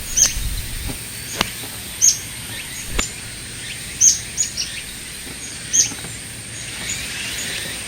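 Birds chirping: a series of short, high notes that drop in pitch, scattered irregularly, with two sharp clicks in the first few seconds.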